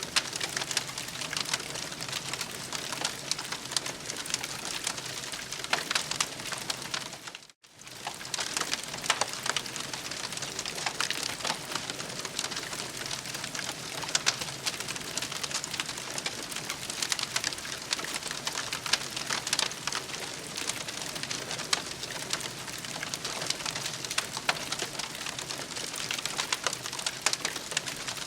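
Campfire crackling: a dense, steady spatter of small pops and snaps over a soft hiss. The sound cuts out for a moment about seven and a half seconds in, then carries on.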